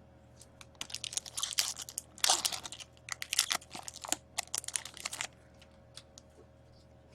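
Foil wrapper of an Upper Deck SP Authentic hockey card pack being torn open and crinkled, a run of crackling rustles that is loudest about two seconds in and stops a little after five seconds.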